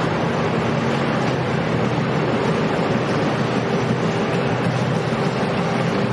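Motorboat engines running steadily, with a few low steady tones over the rush of water and wind.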